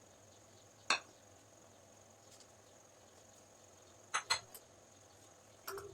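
A few light clicks and knocks of kitchen utensils and dishes being handled: one about a second in, two close together around four seconds, and one near the end, over a faint steady high-pitched whine.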